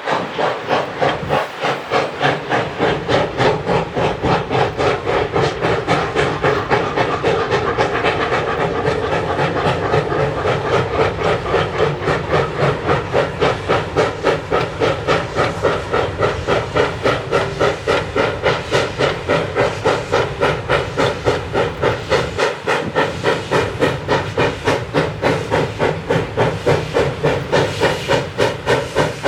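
Steam locomotive exhaust chuffing in a steady rhythm of about three to four beats a second as the 2-8-0 Consolidation works a train past.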